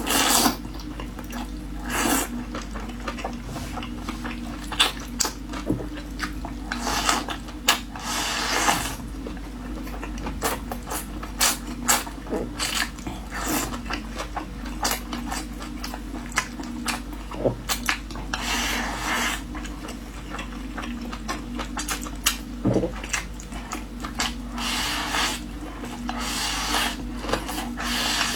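Close-miked eating sounds: utensils clicking and scraping against a bowl many times, with several short hazy bursts of slurping or chewing noodles and rice.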